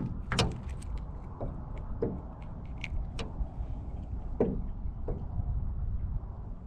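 Wind buffeting the microphone in a steady low rumble, with a handful of short knocks and taps scattered through it, the loudest about half a second in and again about four and a half seconds in.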